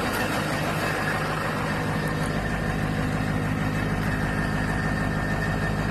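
2005 6.0-litre diesel engine idling steadily on a cold start, just fired up after sitting for over a year, with no blow-by from the dipstick.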